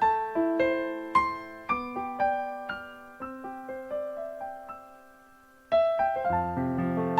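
Gentle piano music: single notes struck one after another, each ringing and fading away. The melody grows quieter toward a brief lull about five and a half seconds in, then a louder, fuller chord comes in near the end.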